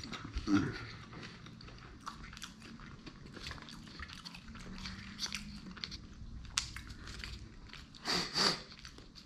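Close-miked chewing of sushi: a steady run of wet mouth clicks and smacks, with a louder bite about half a second in and a louder breathy stretch near the end.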